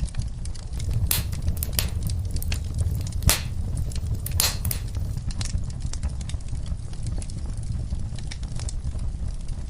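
Wood fire in a fireplace crackling: a steady low rumble of flames under constant small clicks, with several louder pops in the first half, the loudest about a third of the way in.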